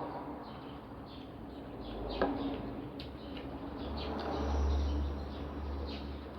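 Small birds chirping in quick, repeated high notes. There is a single sharp click about two seconds in, and a low rumble swells briefly past the middle.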